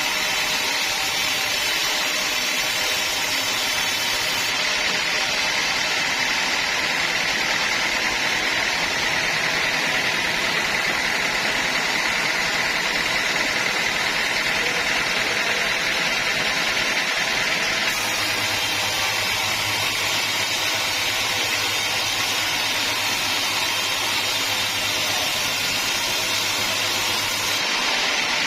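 Sawmill machinery running steadily, the noise of the log saw and its drive. The tone shifts abruptly a few times.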